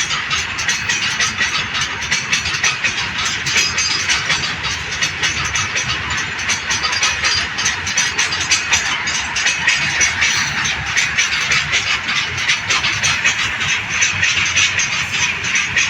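Train wheels running past on the rails close by: a steady loud rush with rapid, continuous clicking of wheels over rail joints.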